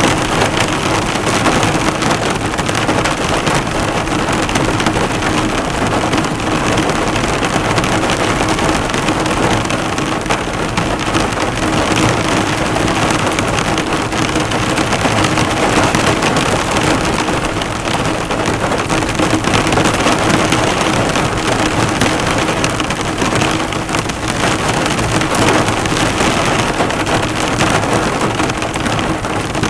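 Heavy rain falling steadily on a car, the drops drumming and bouncing off the hood in a continuous dense patter.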